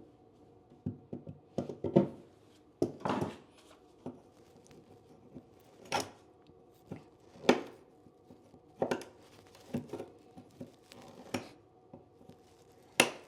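Old staples being pulled out of a wooden subfloor: irregular sharp clicks and short scrapes of metal on wood, about one a second.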